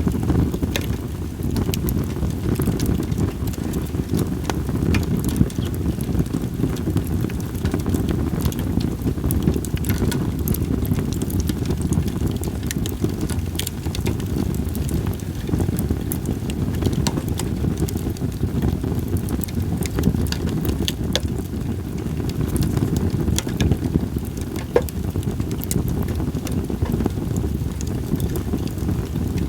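Split sawtooth oak (kunugi) firewood burning in a campfire, with scattered sharp crackling pops over a steady low rumble of wind on the microphone.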